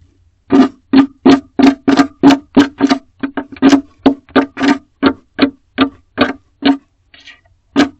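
Barn owl scratching at the wooden wall of its nest box: a fast run of short scraping strokes, about three a second, each with a low ringing note. The strokes pause briefly near the end.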